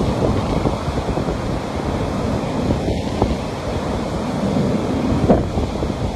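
Ocean surf: a steady wash of breaking waves, with wind buffeting the microphone and a short crackle about five seconds in.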